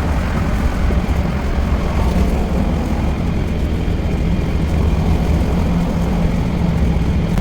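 A vehicle driving at speed, its engine and road noise making a steady low drone.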